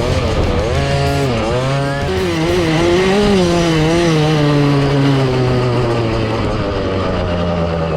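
Dirt bike engine running hard, its pitch rising and falling smoothly with the throttle.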